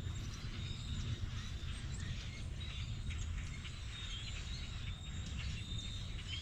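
Outdoor ambience: small birds chirping in short repeated notes over a steady low rumble.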